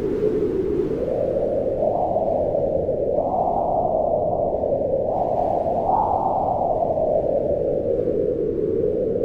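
Steady, low rushing wind whose pitch swells up and sinks back as gusts come and go, rising a few times and highest about six seconds in.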